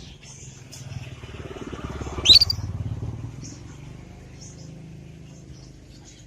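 Young canary giving scattered soft, high twittering chirps and one loud, sharp chirp about two seconds in. Under it, the low rumble of a passing motor vehicle swells and fades.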